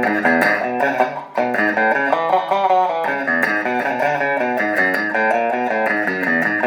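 Clean electric guitar played through a Boss GE-7 equalizer pedal into Roland JC-120 amplifiers, picking a quick run of single notes and arpeggiated chords.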